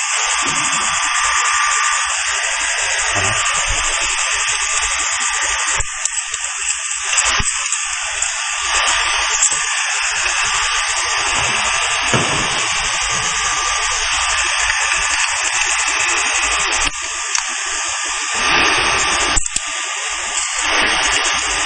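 HB3000+ welding stress relief machine running, a loud steady high-pitched hiss with a faint steady tone in it, wavering briefly a few times.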